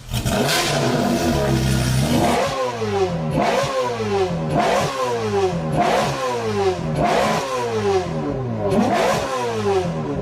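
Car engine revved over and over, about once a second: each blip of the throttle snaps the revs up and they fall away again, after a couple of seconds of steady running.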